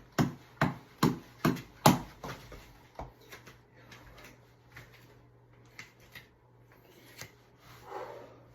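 Fists striking a tap ball, a boxing reflex ball on an elastic cord, in a quick even rhythm of about two hits a second; five or so sharp hits, then the hitting stops about two seconds in. A few light taps and a short breathy noise follow near the end.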